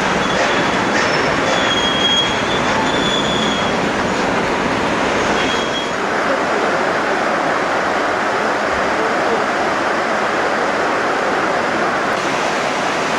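Narrow-gauge passenger train running along the track: a steady rush of wheels on rail, with a few brief high wheel squeals in the first half.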